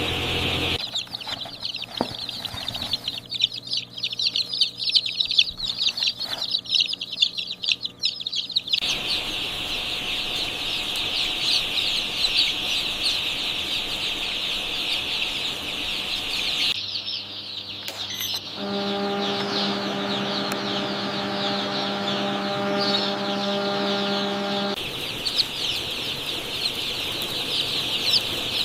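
A large crowd of chicks peeping, a dense high chatter of overlapping calls. There is some clattering in the first several seconds, and a steady machine hum underneath for a stretch in the second half.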